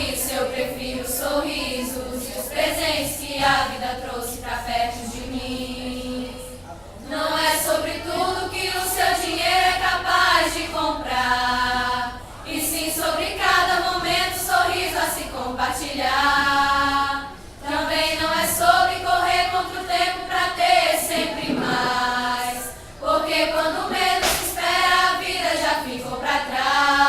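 Mixed vocal group singing a cappella in harmony, in phrases that pause briefly about every five seconds.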